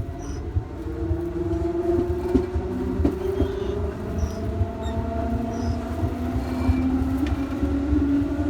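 Electric train traction motors whining as the train accelerates, several tones slowly rising in pitch over a low rolling rumble, with a few short clicks from the wheels on the rails. The train is running with one motor unit cut out.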